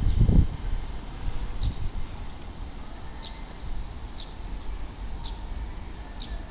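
Keikyu 1000-series train pulling slowly into the station: a few heavy low thumps in the first half second, then a steady low rumble. Short high chirps repeat about once a second over it.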